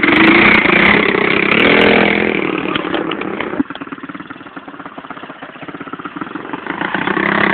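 Pit bike engine running, loud at first, then dropping off sharply about three and a half seconds in and building back up near the end.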